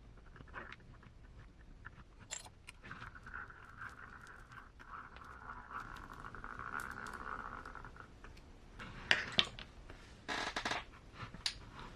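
Faint handling noises of small RC transmission parts while the gears are greased: a few seconds of light scraping in the middle, with scattered small clicks and a couple of louder clicks near the end.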